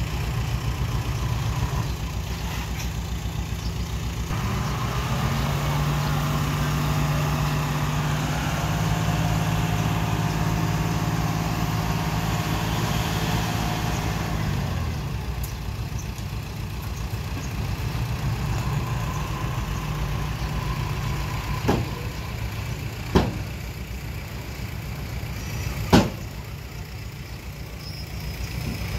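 Diesel engines of earthmoving machinery running: a steady low engine note throughout, with a second engine working harder at a higher, steady pitch from about four seconds in until about fifteen seconds. Later come three sharp clanks.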